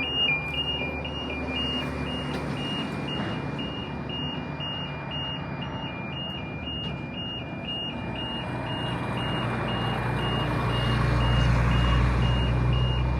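Level crossing warning alarm sounding a two-tone electronic signal that steps back and forth between two high pitches about twice a second. From about two-thirds of the way in, a low rumble of an approaching diesel Endeavour railcar train grows louder.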